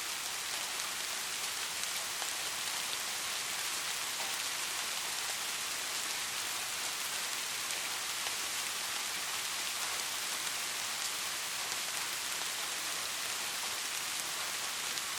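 Soft, steady rain falling: an even hiss of many drops with the odd single drop ticking out above it.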